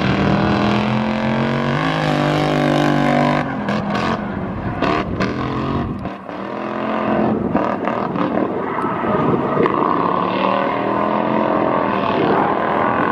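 Lexus LS400's 1UZ V8 revving hard on a drift run, its pitch repeatedly climbing and falling as the throttle is worked, with a brief drop about six seconds in.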